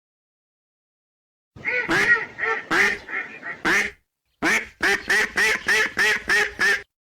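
Ducks quacking after a second and a half of silence: a ragged cluster of quacks, then after a short break a quick, even run of about nine quacks, roughly four a second.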